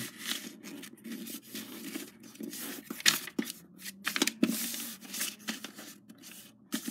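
A sheet of A4 paper being folded and creased by hand, with irregular rustles and scrapes of paper.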